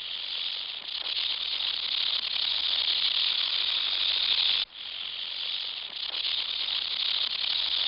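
Rattlesnake shaking its tail rattle: a continuous dry, hissing buzz, the snake's warning sound. It breaks off abruptly about four and a half seconds in and starts again straight away.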